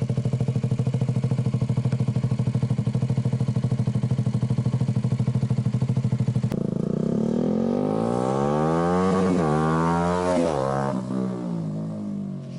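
KTM Duke 200's single-cylinder engine through a custom, glass-wool-packed, wrapped underbelly exhaust, idling with a steady, even pulse. About halfway through, the sound cuts abruptly to the bike riding past: the exhaust note rises as it approaches, drops sharply as it goes by, and fades away.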